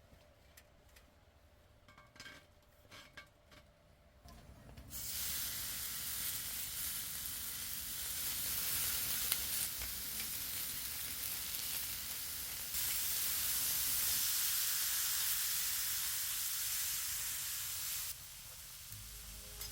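Food sizzling in a hot cast-iron grill pan. The sizzle starts about five seconds in after a few light clicks, grows louder about halfway through and drops back near the end.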